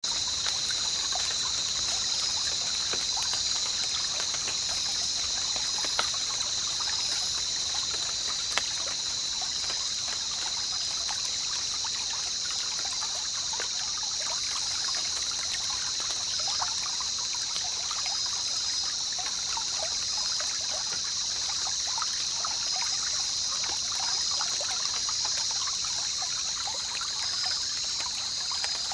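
River water trickling and burbling over stones, with many small splashes. Over it runs a steady, high-pitched insect chorus, the loudest part of the sound, typical of a jungle.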